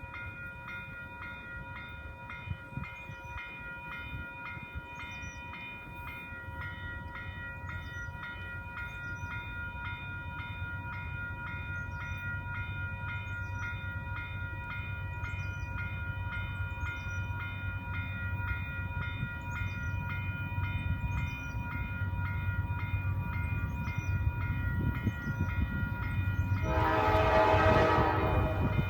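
Grade-crossing warning bell ringing steadily as the low rumble of an approaching freight train led by a GE C40-8 diesel locomotive grows louder. About 27 seconds in, the locomotive's air horn sounds one blast of about a second and a half.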